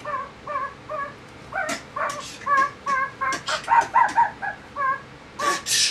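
Rapid, high-pitched dog-like yapping: a string of short yips, two or three a second, with a few breathy huffs in between.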